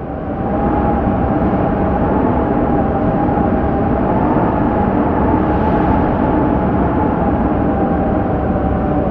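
Strong wind blowing steadily and hard, a continuous rushing with a thin, wavering whistle above it.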